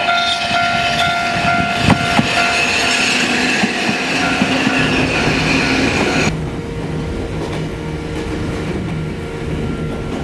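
A level crossing warning bell ringing in quick repeated strokes as a Sangi Railway electric train approaches, then the train's running noise with a high steady squeal. About six seconds in the sound cuts abruptly to inside the driver's cab of a moving train: a low steady motor hum and wheels clattering on the rails.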